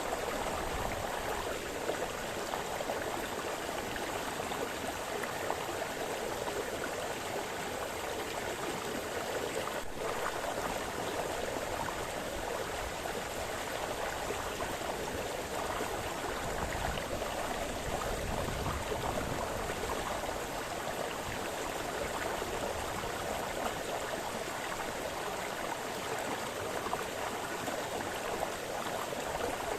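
Small forest brook splashing and burbling over stones: a steady, continuous rush of flowing water.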